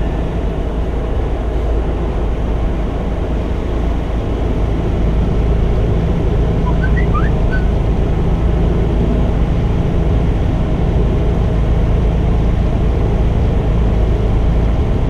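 Steady low drone of a semi-truck's engine and road noise heard inside the cab while cruising on the highway, getting slightly louder about five seconds in.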